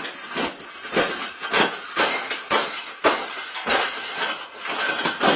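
A cage being bent and folded by hand: a string of irregular sharp knocks and rattles, about two or three a second, as it is forced into shape.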